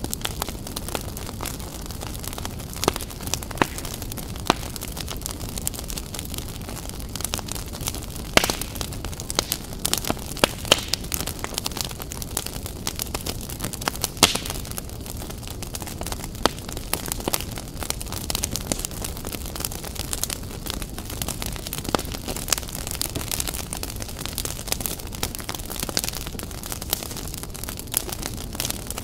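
Fire crackling: a steady low rumble of burning with frequent irregular sharp pops and snaps.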